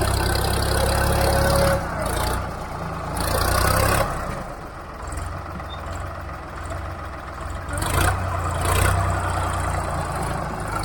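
Tractor engine running with a strong low hum that swells and eases several times, loudest at the start, about three seconds in and about eight seconds in.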